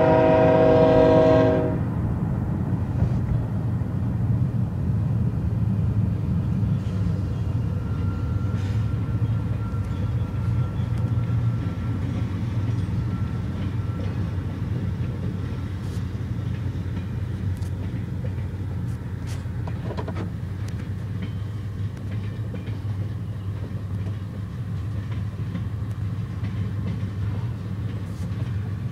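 A loud multi-note horn that stops about two seconds in, then a steady low rumble of a large vehicle or machine running.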